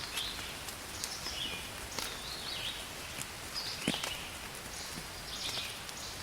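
Steady rain hiss with scattered drops ticking, and birds chirping again and again over it.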